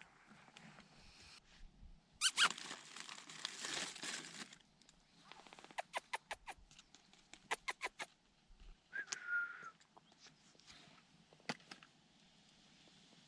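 A horse moving about, its hooves clopping in short runs of sharp knocks, with a noisy burst of about two seconds near the start and a brief high call about nine seconds in.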